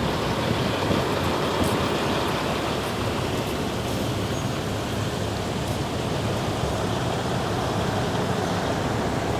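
Steady rush of the flood-swollen Mohawk River's fast-flowing water.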